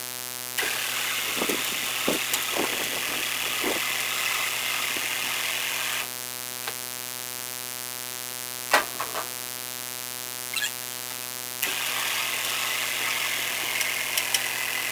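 A steady mechanical hum. Twice it is joined by a louder motor whirring with scattered clicks: once for about five seconds starting half a second in, and again for the last few seconds.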